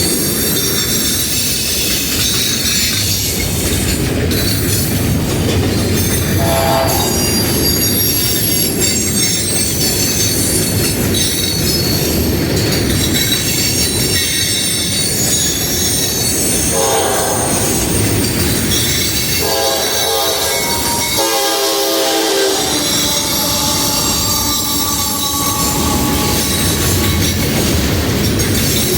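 Freight train rolling past: steady wheel-on-rail noise with high-pitched wheel squeal throughout, and a brief horn note about twenty seconds in.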